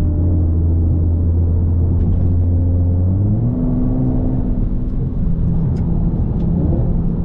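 Infiniti G37 Coupe's VQ V6 running through a full titanium Tomei exhaust, a steady low drone whose revs step up about three seconds in and then hold at the higher pitch.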